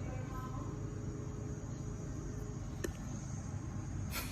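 Low steady background noise with a faint high whine, broken by a small click about three seconds in and a brief hiss near the end.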